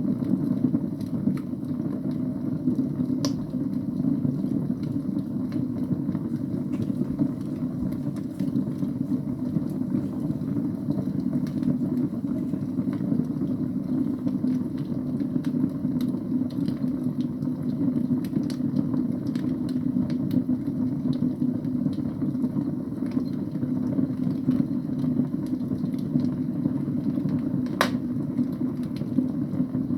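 Wood fire burning in a fireplace: a steady low rush with scattered crackles and pops, including a sharper pop near the end.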